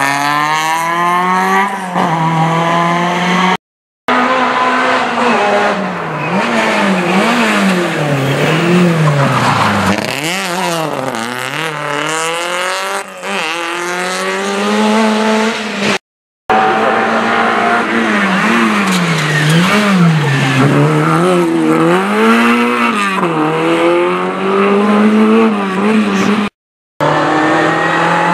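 Rally car engines revving hard, the pitch climbing and dropping again and again through gear changes and lifts off the throttle, loud throughout. The sound cuts out abruptly three times between clips.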